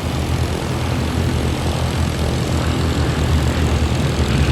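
Bristol Blenheim's twin Mercury radial engines droning steadily as it flies past, growing slightly louder near the end.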